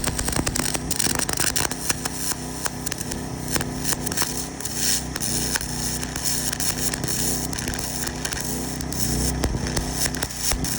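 Small MIG welder arcing with a continuous crackling sputter while laying a weld bead, over the steady drone of the generator engine that powers it.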